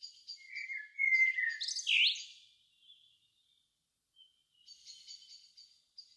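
Songbirds singing in the evening countryside: a run of rapid, evenly repeated high notes about four a second, then a louder phrase of sweeping, gliding whistled notes about a second in. The repeated-note series returns near the end.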